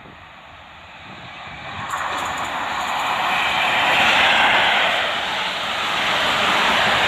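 A train approaching and passing close by, its rushing noise building from about a second in and staying loud.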